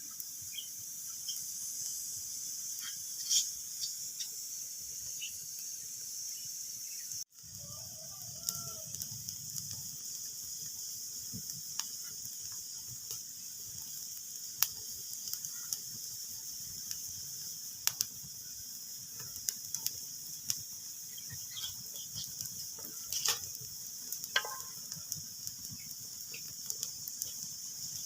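Wood fire crackling in a fireplace: a steady soft hiss with frequent irregular pops and snaps, some sharper than others. The sound drops out for a split second about seven seconds in.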